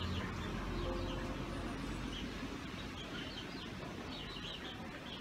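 Faint bird chirps recurring over steady low background noise.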